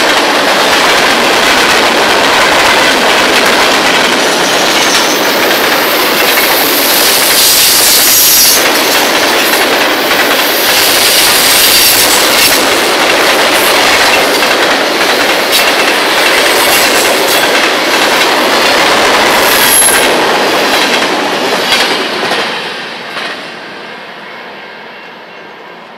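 Freight train cars rolling past close by: a loud, steady rumble with wheels clacking over rail joints and brief high wheel squeals. About 22 seconds in the noise falls away quickly as the last cars go by.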